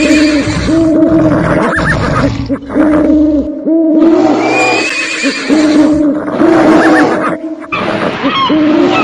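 Animal calls: loud, repeated cries with a wavering pitch, paused briefly twice.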